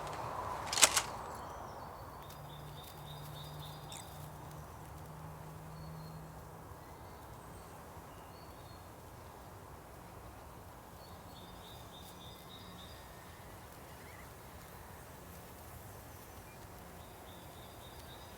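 Quiet woodland ambience with birds calling faintly and intermittently, and one sharp click about a second in.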